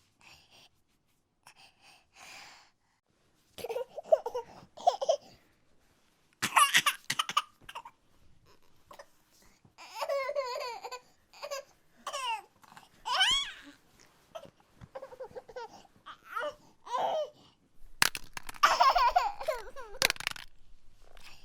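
Repeated bursts of laughter and babble, with high squeals that slide up and down in pitch, broken by short gaps.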